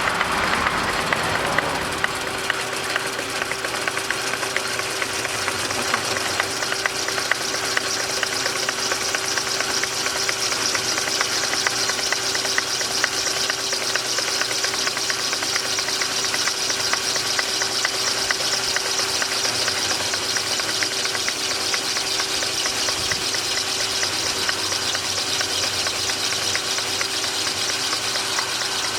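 A machine running steadily: a constant hum with one held tone and a hiss.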